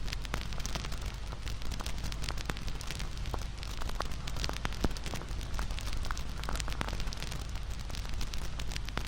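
Wood campfire crackling, with many irregular sharp pops and snaps over a steady low rumble of the flames.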